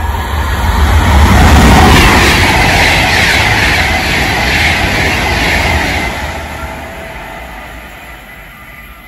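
Class 390 Pendolino electric train running through the station at speed: a rush of wheel and air noise with a low rumble that swells to its loudest about two seconds in, holds, then fades away over the last few seconds as the train recedes.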